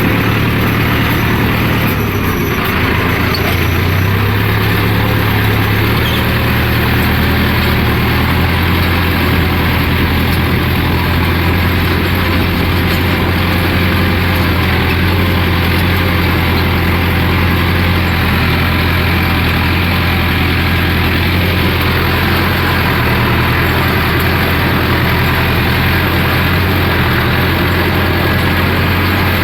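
Tractor diesel engine running steadily while pulling a land leveller, with a slight rise in engine pitch about three to four seconds in.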